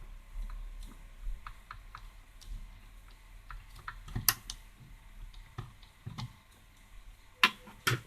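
Scattered small clicks and taps of hands and tools handling the parts of a cassette recorder's tape mechanism during a belt replacement. There is a sharper click about four seconds in and two more near the end.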